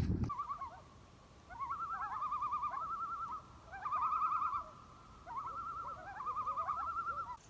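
A bird's call: a rapidly wavering, trilled whistle repeated in three long phrases.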